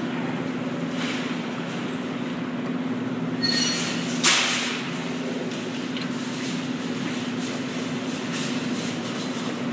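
Claw machine running with a steady low hum, giving a short electronic beep about three and a half seconds in, followed at once by a sharp mechanical clack, the loudest sound.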